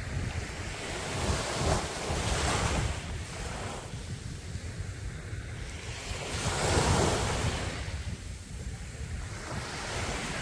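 Sea waves breaking on a beach, the surf swelling and washing in twice, with a steady wash of noise between the breaks. Wind rumbles on the microphone underneath.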